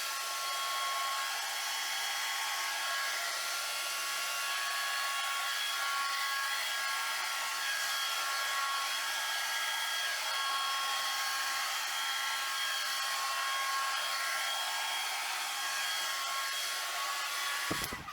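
Handheld hair dryer running steadily, a rush of air with a high motor whine over it. It is switched off near the end.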